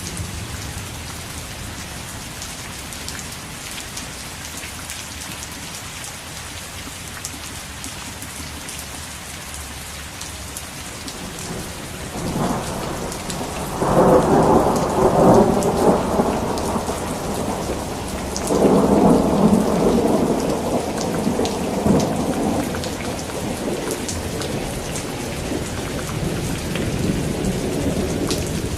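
Steady rain falling, with rolling thunder that builds about twelve seconds in, peaks twice and then fades back under the rain.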